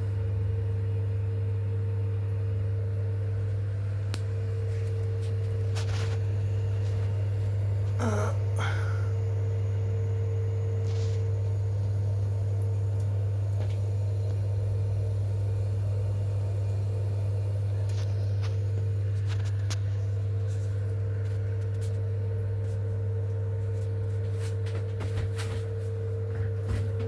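Potterton Performa 24 Eco HE combi boiler running with a steady low hum and a fainter higher tone over it, with a few light clicks and knocks now and then.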